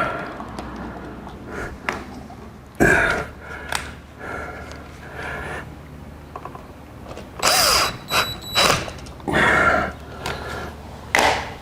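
Hand tools and hardware being worked while a new electrical wall outlet is fitted: intermittent clicks, knocks and short scraping rattles, with a few louder bursts about a third of the way in and again past the middle.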